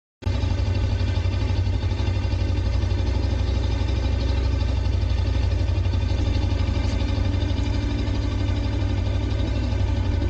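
Suzuki V-Strom 250's parallel-twin engine idling steadily, cutting in abruptly just after the start.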